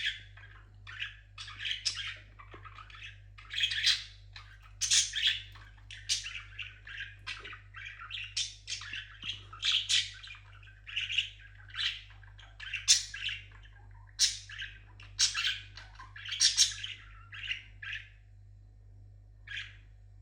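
Pet parrot calling and chattering in a long run of short, shrill chirps and squawks, one after another with brief gaps, stopping shortly before the end.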